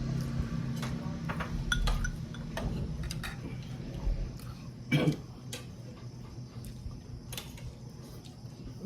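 Irregular light clicks and taps of cutlery against plates and dishes during a meal, with a louder knock about five seconds in. A low hum fades out over the first few seconds.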